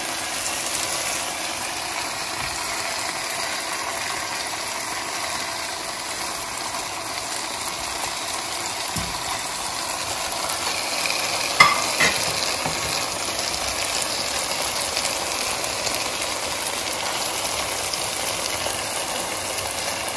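Reduced curry masala frying in its separated oil in a pan, a steady sizzle, as fried chicken koftas are set into it. Two sharp clicks a little past halfway.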